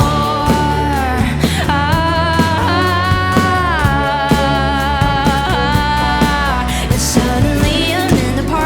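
Live indie-folk band music: a singer holds a long, wavering note over steady bass and regular drum hits.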